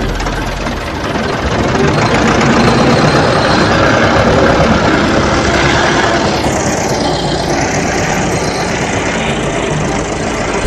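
Tractor engine running steadily, a dense, continuous engine noise with a slowly shifting tone from about six seconds in.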